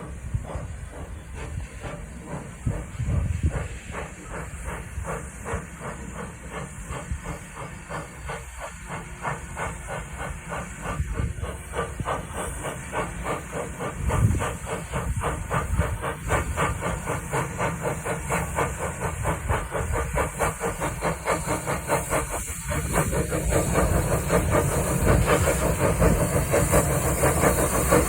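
Steam locomotive working, hissing steam with a regular beat of exhaust, growing louder over the last few seconds.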